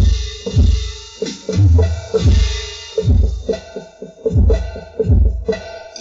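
Roland SPD-20 electronic percussion pad played with drumsticks, its pads triggering electronic drum sounds: a deep kick every half-second or so with other drum hits between, in a steady groove. The pads respond to each stroke, a test of the newly replaced piezo sensors.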